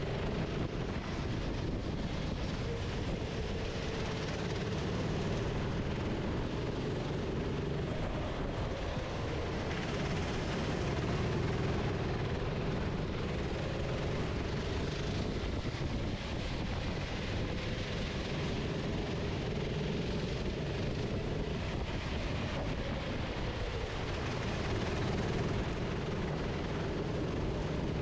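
Racing kart engine heard onboard, its revs rising and falling as the kart accelerates and slows through corners, over a steady rush of noise.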